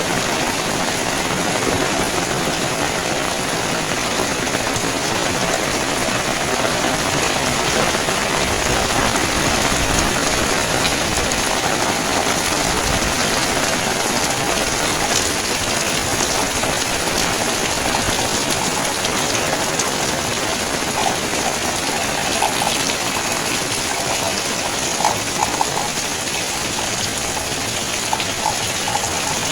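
Steady rain falling: an even, dense hiss. Near the end come a few short, high blips.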